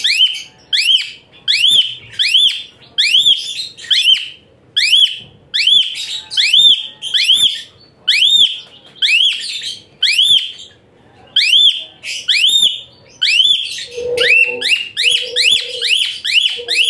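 Asian pied starling singing: loud, high-pitched whistles that rise and fall in an arch, repeated about twice a second. Near the end a lower, steady note joins in a few short pieces.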